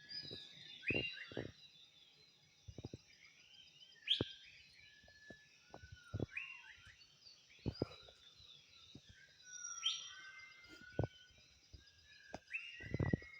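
Forest dawn chorus: a bird repeats a quick rising-then-falling whistled phrase several times among other bird calls, over a steady high-pitched insect drone. Short low thumps come and go.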